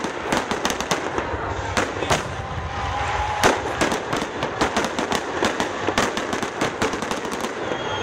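Fireworks display: many sharp bangs and crackling pops in quick, irregular succession over a continuous rumble, with one louder bang about halfway through.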